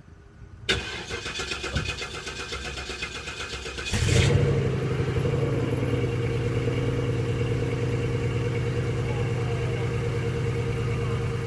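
Cadillac DeVille's Northstar V8 cold-starting in freezing weather. The starter cranks for about three seconds, then the engine catches with a burst of revs and settles into a steady fast idle.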